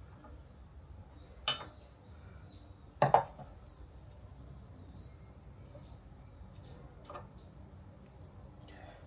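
A few sharp metallic clinks and knocks, the loudest about three seconds in and a weaker one near the end, from metal parts and tools being handled at the drill press.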